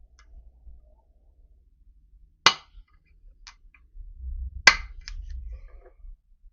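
Automatic centre punch snapping twice, about two seconds apart, with faint clicks of handling between: re-punching a centre-pop mark to shift it slightly toward the scribed position of a hole.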